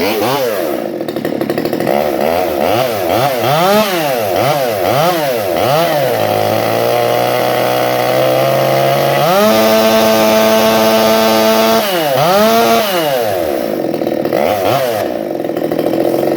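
Stihl 020T two-stroke top-handle chainsaw running, blipped up and down repeatedly, dropping to a steady idle, then held at full throttle for a couple of seconds before more quick revs. At full throttle it reaches about 13,700 rpm, higher than the roughly 12,000 it is to be tuned down to.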